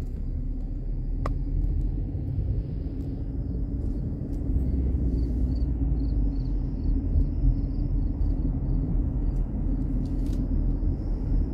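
Road noise from inside a moving car: a steady low rumble of engine and tyres, growing a little heavier about four and a half seconds in.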